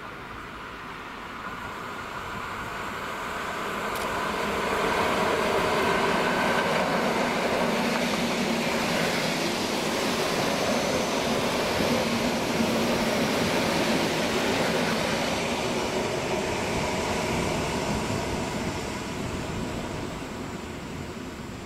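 Train passing by: its rumble builds over about five seconds, holds steady with a low hum for about ten seconds, then fades as it moves away.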